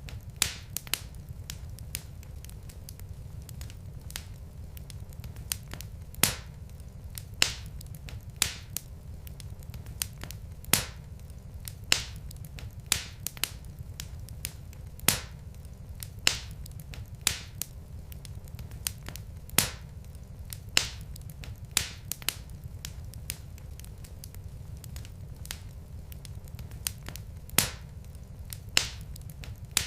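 Wood fire burning in a fireplace, its logs crackling with frequent irregular sharp pops over a steady low rumble.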